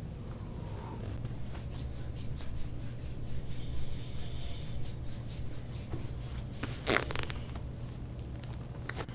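Hands rubbing and kneading over a patient's body during deep-tissue massage: a run of quick rubbing strokes, then a louder rustle about seven seconds in and a short click near the end, over a steady low hum.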